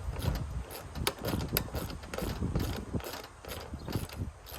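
Irregular clicks, knocks and clatter of metal tools and mower parts being handled.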